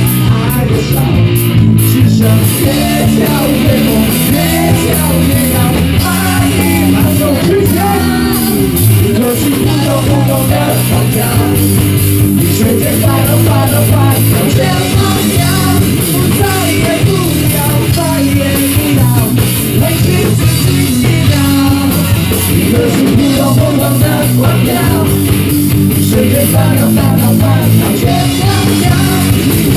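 Live rock band playing loudly and steadily, with guitar and drum kit driving the beat.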